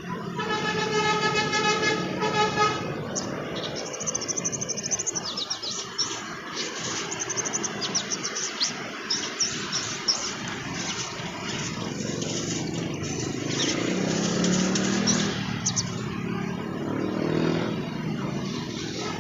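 A vehicle horn blares for about two seconds at the start, then a sunbird gives rapid, high, twittering chirps over steady background traffic noise.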